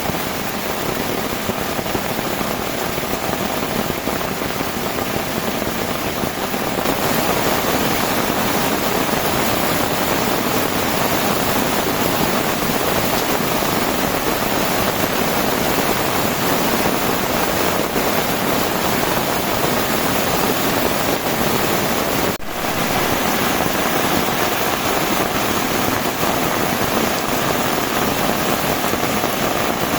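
Heavy rain falling in a steady downpour, a little louder from about seven seconds in, with a momentary dropout about two-thirds of the way through.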